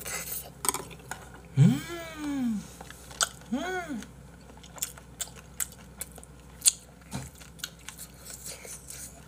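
Close-miked chewing of a mouthful of spicy braised monkfish, with many sharp wet mouth clicks. Two hummed "mmm"s rise and fall in pitch about two and three and a half seconds in; the first is the loudest sound.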